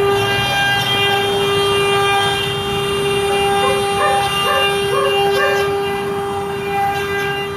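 CNC stone carving machine running with a steady, high, unchanging whine, with a few brief changes in tone near the middle.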